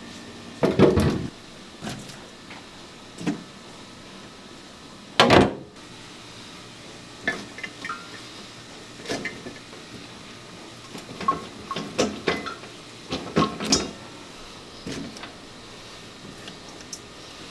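Irregular knocks and clatters of things being handled, over a steady background hum. Two loud thuds come about one second and five seconds in, then a run of lighter clanks and taps in the second half.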